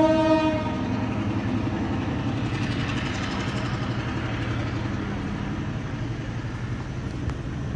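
A diesel train's horn sounds a steady note that cuts off under a second in. The locomotive's engine then runs on with a steady low drone and rail rumble.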